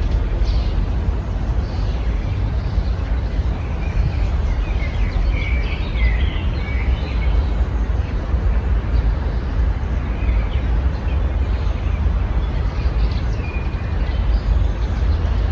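Small songbirds chirping and trilling in short bursts, busiest around five to seven seconds in, over a steady low rumble.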